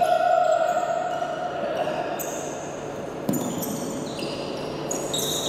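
Indoor basketball game: a held tone of about two seconds at the start, then scattered short high squeaks and a single bounce-like knock about three seconds in.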